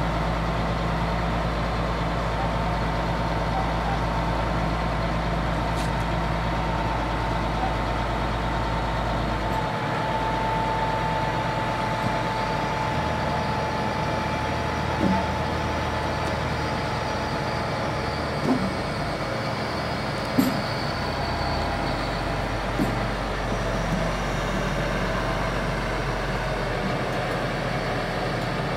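A crane truck's engine running steadily under load while trees are lifted, its pitch stepping down and back up a few times, with a steady high whine over it. Four short, sharp sounds stand out in the second half.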